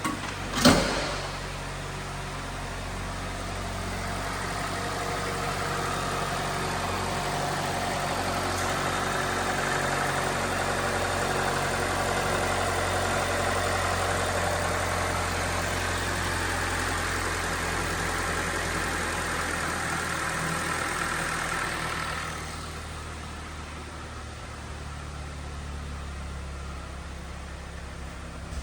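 2022 Kia Forte's 2.0-litre four-cylinder engine running, with a sharp click or knock about a second in. The engine runs louder and busier for most of the time, then drops back suddenly at about 22 seconds to a quieter, steady idle.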